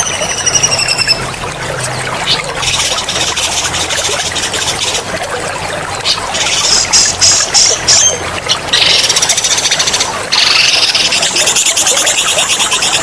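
A songbird sings loud, rapid rolling trills in several long bursts, opening with a held whistle. Running water trickles steadily underneath.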